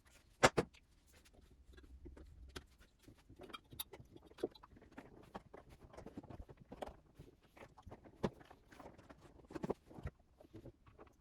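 Hands fitting a replacement temperature sensor and its wiring back into a refrigerator: a sharp click about half a second in, then an irregular scatter of small plastic clicks, taps and rustles.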